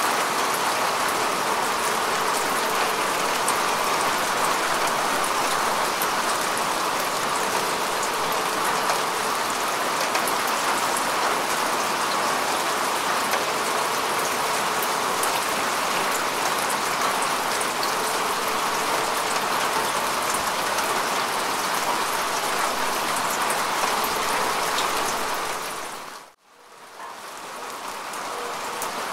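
Steady rain falling on grass and earth: a dense, even patter with fine droplet ticks. About 26 seconds in, it fades out briefly to near silence and then fades back in.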